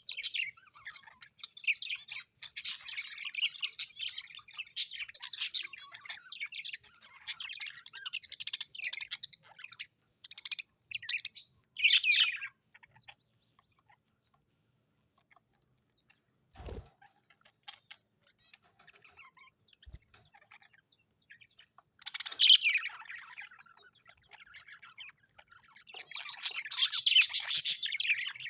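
Parrots chirping and twittering in quick, high calls, then falling quiet for several seconds with a single dull knock in the pause, before chirping again near the end.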